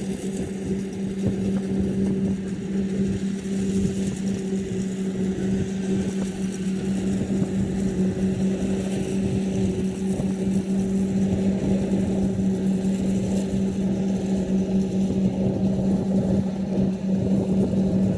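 Rice combine harvester running steadily: a constant engine hum over the dense rumble of its machinery, growing a little louder about seven seconds in.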